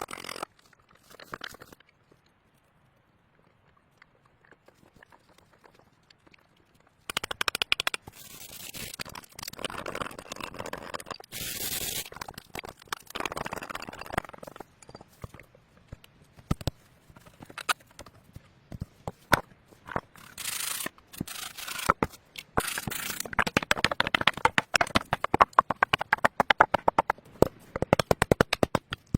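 Near quiet for several seconds, then a long run of scraping and crackling with many short clicks, which come close together in a rapid patter near the end.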